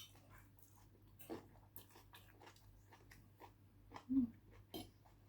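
Close-miked chewing of rice noodles and roast pork: soft wet mouth clicks and smacks, with a brief low hum about four seconds in.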